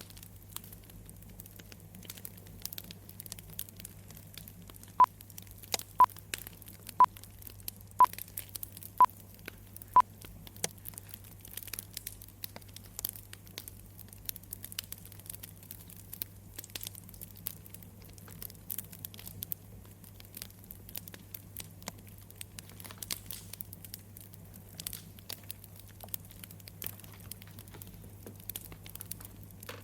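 Campfire crackling steadily, with six short beeps from a timer, one a second, about five seconds in: the pomodoro timer marking the end of the 25-minute focus period.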